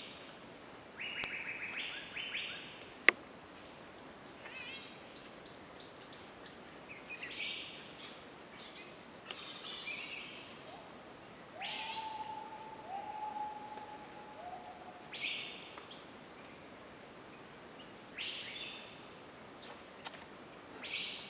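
Forest birds calling: bursts of high chirps and trills come and go throughout, with three clear, level whistled notes about twelve to fifteen seconds in. Under them runs a steady high hum, and a single sharp click about three seconds in is the loudest sound.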